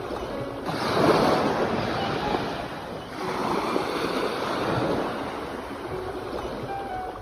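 Ocean waves washing in, the surf swelling twice: once about a second in and again about three seconds in.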